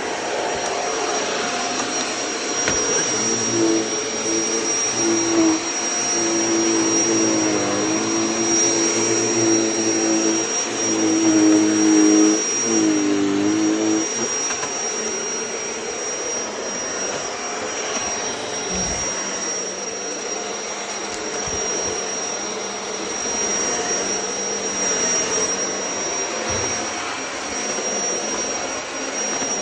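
Shark vacuum cleaner running steadily, with a high steady whine over its rushing air. For several seconds in the first half a lower hum rises and wavers in pitch, then drops away.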